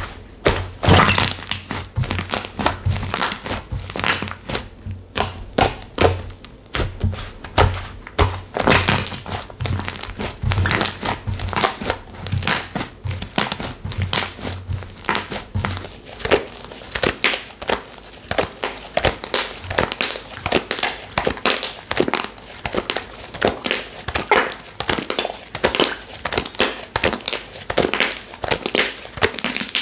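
Slime being squeezed and worked by hand: a dense, irregular run of sticky crackling pops and soft thuds.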